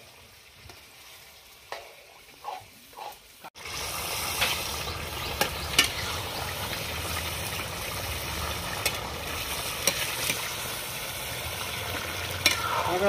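Mutton curry frying in a metal kadai, stirred with steel spatulas: a steady sizzle with scattered clicks and scrapes of the spatulas against the pan. The masala-coated meat is being stir-fried (kosha) before the potatoes and water go in. It is quiet with a few light scrapes at first, and the sizzle becomes louder and steady after a cut about three and a half seconds in.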